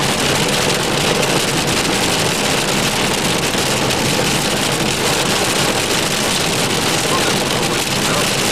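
Steady rain on a car's roof and glass mixed with road noise, heard from inside the moving car.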